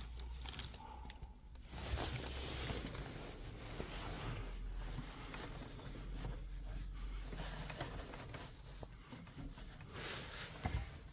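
Faint rustling and scraping handling noises from work on a boiler, with a few light clicks and a low steady hum underneath.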